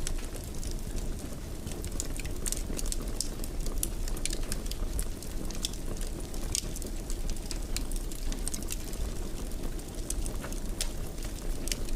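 Wood fire crackling in a fireplace: a steady low rumble of burning with frequent sharp pops and crackles.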